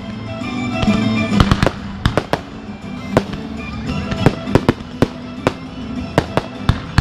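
Aerial fireworks display: a rapid, uneven series of sharp bangs from bursting shells, some fifteen in all, about two a second, with music playing underneath.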